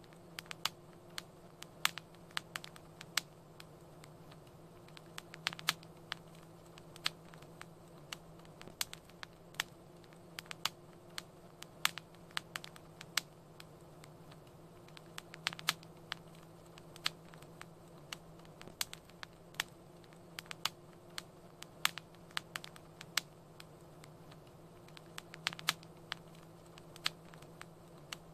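Wood fire crackling: irregular sharp snaps and pops, a few a second and sometimes in quick clusters, over a faint steady low hum.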